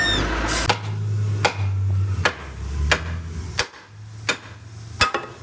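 Sharp knocks at an even pace, about one every three-quarters of a second, at a wheel loader's wheel, over a low engine hum that drops out briefly past the middle.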